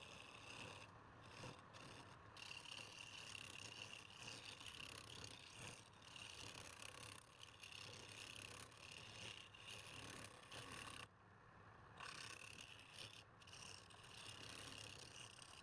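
Wood lathe running while a turning tool cuts the spinning wood, giving a steady scraping hiss. The hiss breaks off briefly a few times, with a longer pause about eleven seconds in, as the tool is lifted from the wood.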